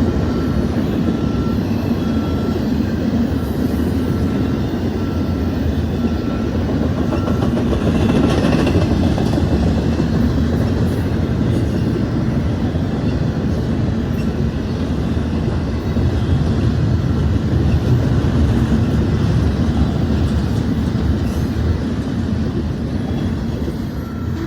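Union Pacific train rolling past: a steady, loud rumble of wheels on rail with some clickety-clack. A faint high ding repeats a little over once a second during the first several seconds and again near the end.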